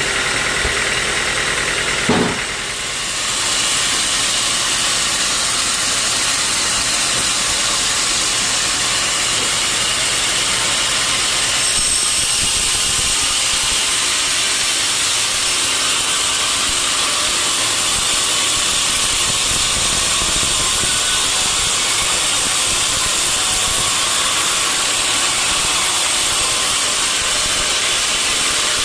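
Sawmill running steadily, a saw cutting through a log over the drone of its engine, with a short knock about two seconds in. The sound gets a little louder and brighter about twelve seconds in.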